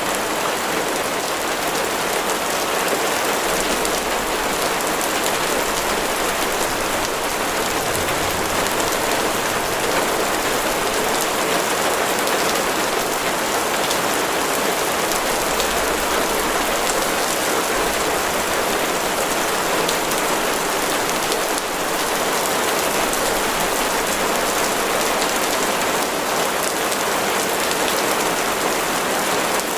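Heavy rain falling steadily: a dense, even hiss of drops on a surface, unchanging throughout.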